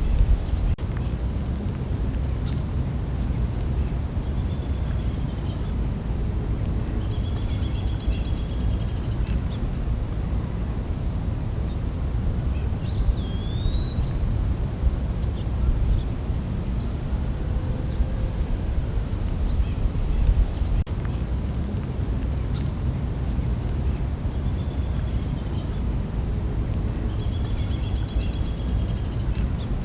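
Night forest ambience: crickets and other insects chirp steadily, with a constant high drone and trains of quick, evenly spaced chirps. Birds call a few times over it, and a low rumble runs underneath.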